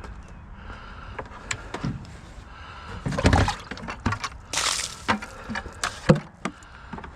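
Clicks, knocks and clattering of hard objects being handled, with two louder scraping bursts, about three seconds in and again a second and a half later.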